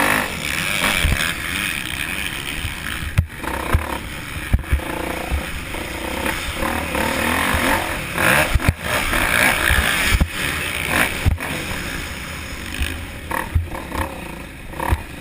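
Motocross dirt bike engines running and revving, rising and falling in pitch, with frequent sharp knocks and thumps on the microphone.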